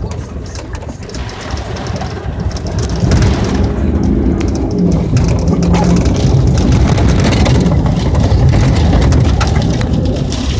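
Car engine and road noise heard from inside the moving vehicle, getting louder about three seconds in and holding steady after.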